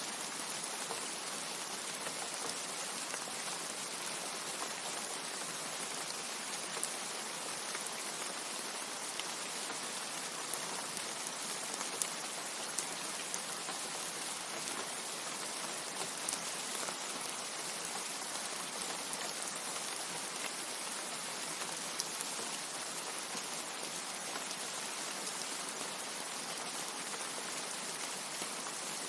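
Steady rain, an even hiss of many drops, with a few louder single drop hits standing out here and there.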